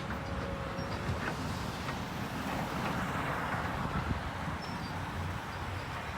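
Heavy demolition machinery running steadily while tearing down a building.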